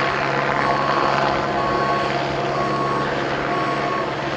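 A vehicle's reversing alarm beeping about once a second over the steady drone of a helicopter and a running engine.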